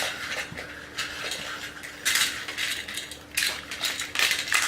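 Toy trains and coaches clattering and clicking as they are moved and pushed along by hand, in several short bursts.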